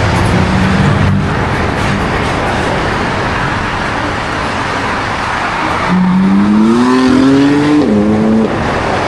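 A car engine revving, its note climbing steadily for about two seconds, then dropping sharply and cutting off, over a loud, steady rush of noise.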